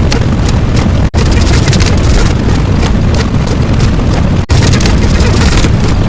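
Loud, continuous rumbling sound effect with crackling, broken twice by a split-second gap.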